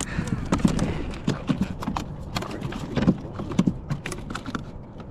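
Bluefish flopping and thrashing against a kayak, a fast irregular run of knocks and thumps that thins out and stops about four and a half seconds in.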